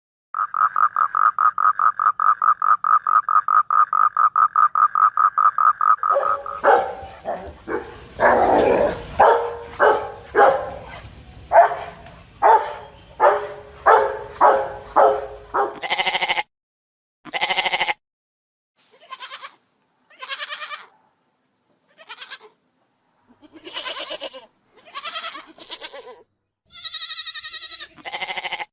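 Farm animal calls in succession. First comes a rapid, evenly pulsed call of about six seconds, then a run of closely spaced louder calls, then sparser short calls, ending with a high pitched drawn-out call.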